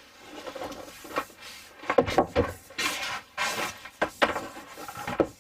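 Irregular rubbing, scraping and knocking of PEX plumbing parts being handled and fitted, with several sharper knocks.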